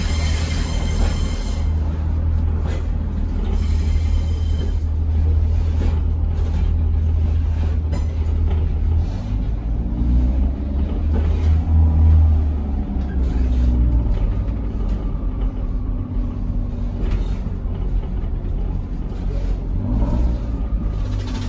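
Cabin of a moving Pacer railbus: a steady low rumble from the underfloor diesel engine and the wheels running on the track, swelling briefly about halfway through.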